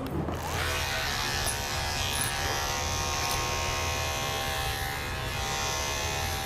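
Electric dog-grooming clippers buzzing steadily, starting up just after the start and running through the dog's long coat.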